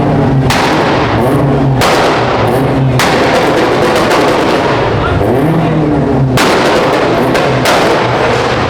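Loud car-meet din: engines revving, with sharp bangs about once a second, mixed with music that has a heavy drum beat.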